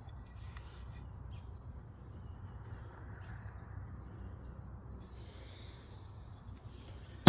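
Quiet background: a low steady hum with faint, high intermittent chirps and ticks, and a faint hiss coming in near the end.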